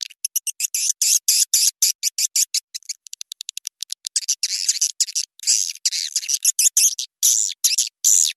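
Swiftlet lure recording: a rapid string of high-pitched chirps and twitters, with a run of quick short ticks about three seconds in. It is the calling sound that swiftlet-house owners play to attract swiftlets to roost and nest.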